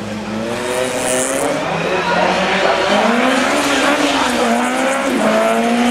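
Small four-cylinder petrol engine of a first-generation VW Polo-type slalom hatchback, revved hard through a course. Its pitch climbs and falls repeatedly, getting louder about two seconds in, with a quick drop and climb near the end as it shifts gear.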